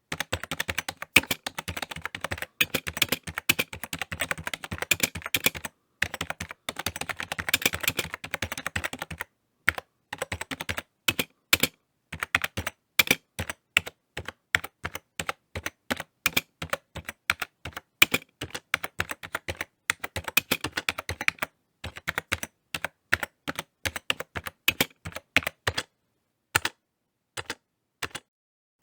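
Typing on a computer keyboard: rapid, dense runs of key clicks at first, then slower, more spaced keystrokes with brief pauses.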